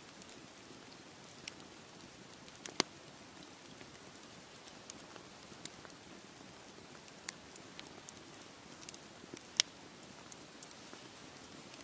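Wood campfire crackling: irregular sharp pops and snaps over a steady soft hiss, with two louder pops, the first about three seconds in and the second near the ten-second mark.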